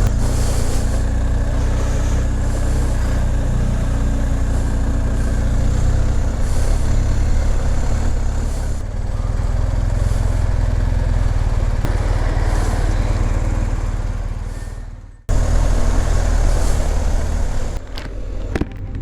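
Motorcycle engine running steadily on the move, with wind and road noise over it. The sound fades out about fifteen seconds in and cuts back in abruptly.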